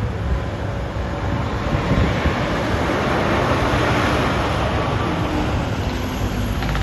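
Highway traffic passing: a steady rush of tyre and engine noise that swells around the middle.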